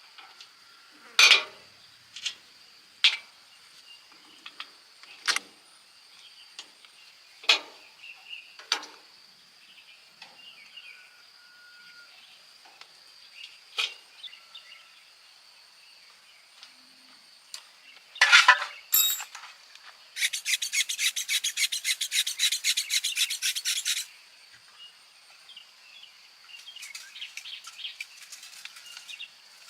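Hand tools working on metal engine parts: scattered sharp clicks and taps, a cluster of louder knocks about two-thirds of the way in, then about four seconds of rapid, even back-and-forth scraping like filing or scrubbing, with lighter scraping near the end.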